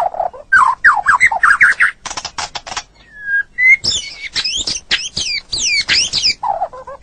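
White-rumped shama singing a varied song: rising whistled notes, a fast dry rattle of clicks, a single held whistle, then rapid high sweeping phrases and a few low falling notes near the end.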